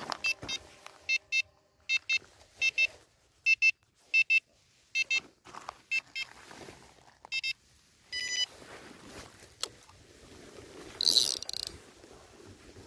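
Electronic carp-fishing bite alarm beeping in short, irregular pairs of beeps as line is pulled off the rod, the signal of a fish taking the bait. About eight seconds in, a different, higher beep pattern sounds once, and a brief rustle follows a few seconds later.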